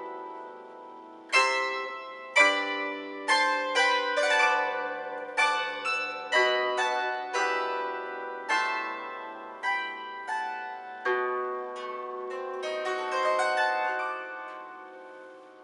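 Solo plucked string instrument playing a slow folk-song melody with chords. Each note is struck sharply and left to ring and die away, and the playing grows softer near the end.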